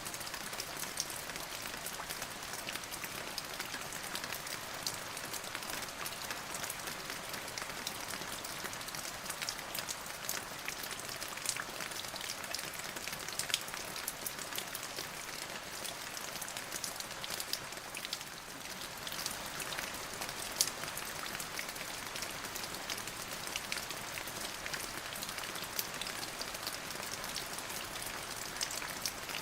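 Steady rain falling, an even hiss with many distinct drops pattering and ticking close by. The level dips briefly about two-thirds of the way through, then picks up again.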